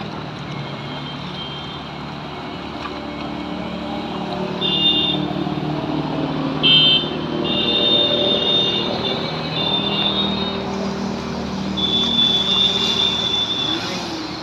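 Road traffic: vehicle engines running and passing over a steady hiss, with high, thin tones that come and go several times, each about a second long.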